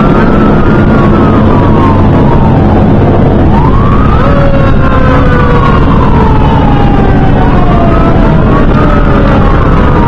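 Fire engine responding with its siren wailing: each sweep rises quickly and falls slowly, repeating every three to four seconds, with some sweeps overlapping. Under it the fire engine's motor and road noise run loud and steady.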